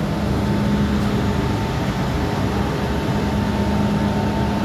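MTR M-Train electric multiple unit heard from inside the car while running: a steady rumble of wheels and track with a steady electrical hum over it.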